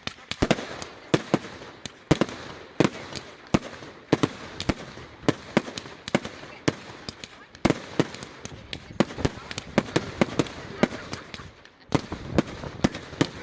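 Consumer fireworks firing a rapid, irregular run of sharp bangs, two or three a second, with a brief pause about twelve seconds in before the bangs resume.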